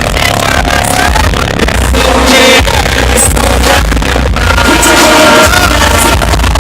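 Live hip-hop concert music played loud over a PA, with vocals over a heavy bass beat, recorded on a phone.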